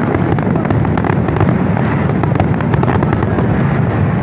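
Fireworks display going off as a dense, continuous barrage of overlapping bangs and crackling.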